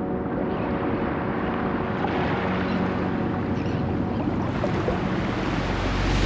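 Steady rushing of sea waves and wind, with a faint steady hum underneath.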